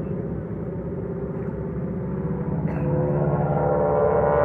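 Aircraft engine droning overhead, growing louder over the last couple of seconds as it comes closer.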